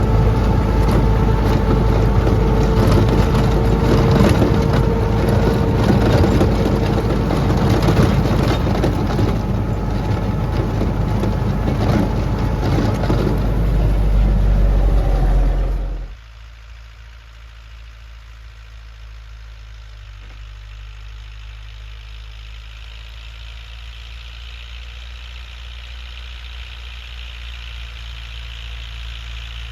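Lovol tractor running with its snowblower working, a loud steady machine noise with a whine held over it. About sixteen seconds in it cuts off suddenly, leaving a much quieter engine running that slowly grows louder.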